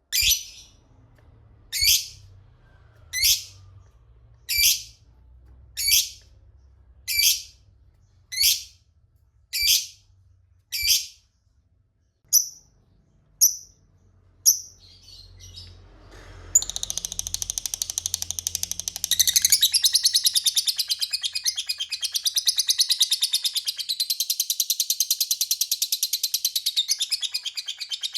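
Lovebird calling: a string of single shrill chirps about every second and a half, then, about sixteen seconds in, a long unbroken rapid chattering trill, the 'ngekek panjang' that lovebird keepers prize.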